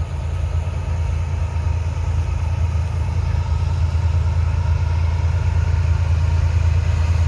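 Diesel locomotive engine running with a steady low rumble that grows slowly louder.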